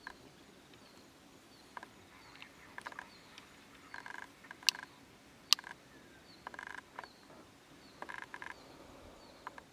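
Small animals calling in the background: short trains of rapid pulses repeating every couple of seconds, with a soft falling chirp above them. Two sharp clicks, the loudest sounds, come a little under a second apart about halfway through.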